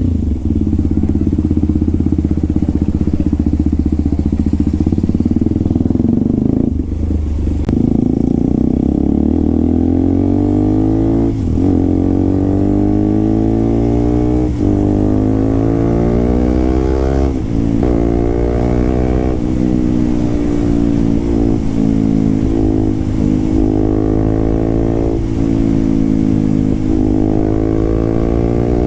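Motorcycle with an SC Project aftermarket exhaust being ridden. The engine holds a steady note for the first several seconds, then its pitch rises and drops again and again, with brief breaks between the rises as the revs change.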